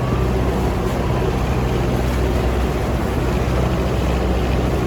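Fishing boat's engine running steadily under way: a constant low drone with a wash of noise over it.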